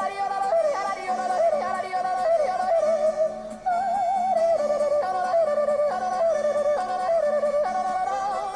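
Yodeling: a single voice flipping rapidly between low and high notes in quick step-like leaps, over instrumental accompaniment.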